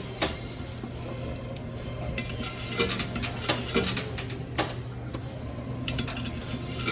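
Quarters clinking and dropping through a coin pusher machine: an irregular scatter of sharp metallic clicks over a steady low hum.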